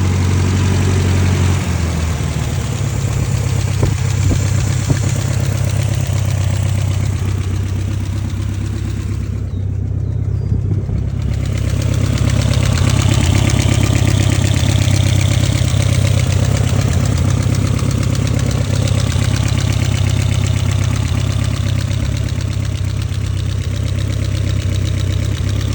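BMW E30 M3's S14 four-cylinder engine idling steadily, with a fast, even ticking knock running through it: the engine knock the owner is documenting.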